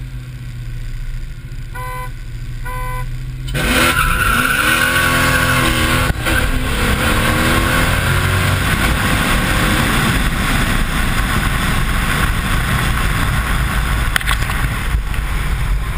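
Car engine idling with a low hum, two short beeps about two and three seconds in, then a full-throttle launch about three and a half seconds in: the revs climb, drop at a gear change and climb again into a loud steady rush. This is a drag-race pull heard from inside the cabin.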